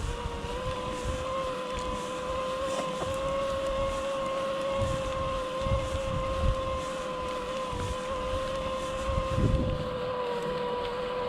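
Mountain bike rolling down a dirt trail: a steady whine from the bike, slightly shifting in pitch with speed, over wind rushing on the microphone, with low thumps from bumps about halfway through and again near the end.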